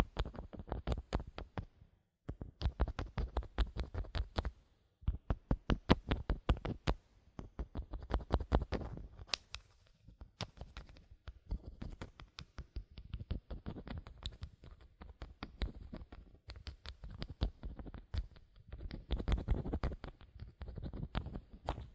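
Bottle cap handled close to the microphone for ASMR: rapid runs of small sharp clicks and scratchy taps, broken by brief pauses about two and five seconds in.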